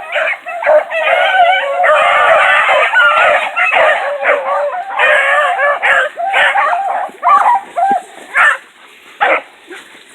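A pack of hunting hounds baying while running game, many voices overlapping for the first several seconds, then thinning to scattered single calls near the end.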